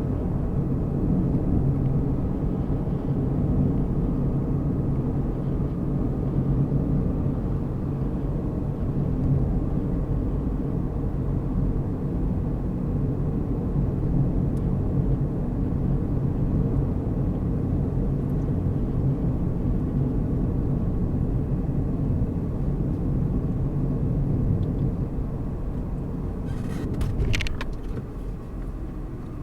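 Car driving along a road, with a steady mix of engine hum and tyre and road noise. Near the end there is a brief high squeak or rattle, and the running noise gets a little quieter.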